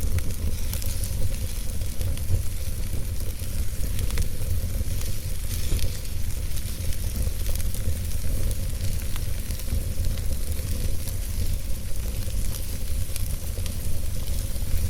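Wood fire burning in a fireplace: a steady hiss with scattered small crackles and pops over a low rumble.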